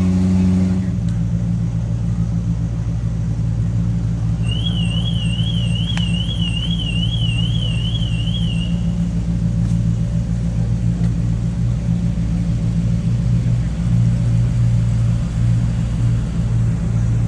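Car engine running steadily with a low, even sound. About four seconds in, a siren starts warbling quickly up and down, about two and a half sweeps a second, for around four seconds before it stops.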